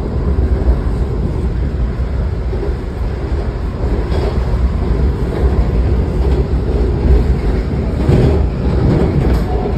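Inside a moving MARC commuter train coach: the steady rumble of the car running on the rails. There is a louder stretch with some clatter near the end.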